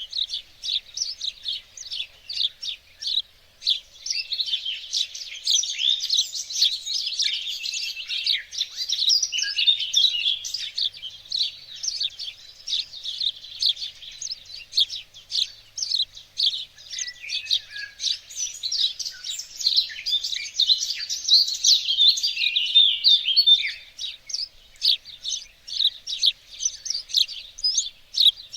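Several songbirds singing and chirping at once: rapid high chirps and trills, overlapping densely throughout.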